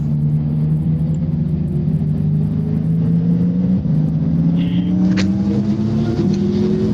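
Motorcycle engine pulling under steady acceleration, its pitch climbing slowly; it drops briefly a little before four seconds in at a gear change, then climbs again.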